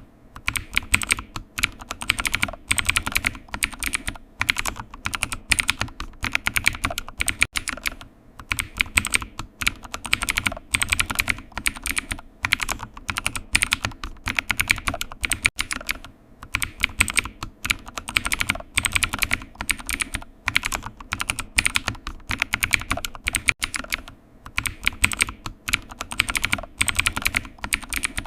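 Computer keyboard typing: fast runs of key clicks in bursts of a few seconds, broken by short pauses.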